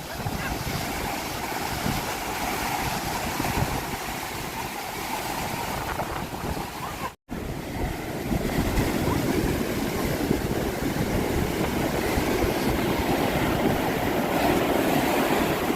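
Surf washing onto the beach at high tide, with strong wind buffeting the microphone in a steady rush. The sound cuts out completely for a split second about halfway through.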